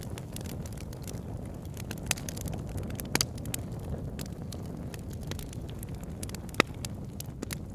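Wood fire burning in a fireplace: a steady low rumble of the flames with scattered sharp crackles and pops, the loudest pop about two-thirds of the way through.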